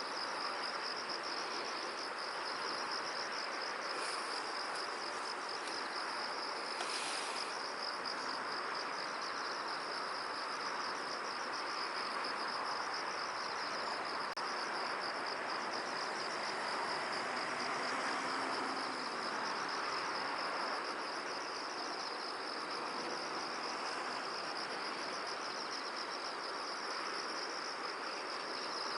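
Insects trilling in a steady, fast-pulsing high chorus over an even rustling wash of wind through a field. A brief higher sound cuts in about seven seconds in.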